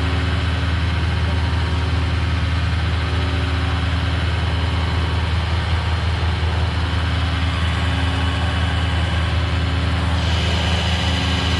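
Tow truck engine running steadily at a raised idle, the fast idle that powers its winch during a recovery. A brief higher hiss comes in near the end.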